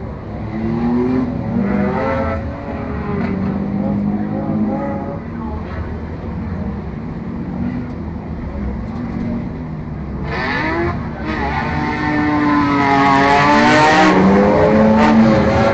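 Four- and six-cylinder enduro race car engines running together, their pitches rising and falling as they rev. About ten seconds in, the engines rise in pitch and get louder as they accelerate, staying loud to the end.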